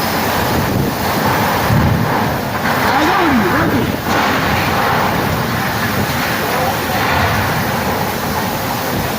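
Heavy rain pouring in a gusty storm wind, a dense, steady rushing noise.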